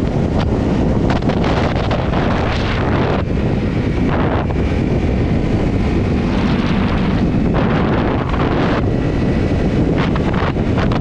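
Heavy wind noise buffeting the microphone while riding a Honda CRF250 motorbike, with its single-cylinder four-stroke engine running steadily underneath; faint engine tones come through in the middle of the stretch.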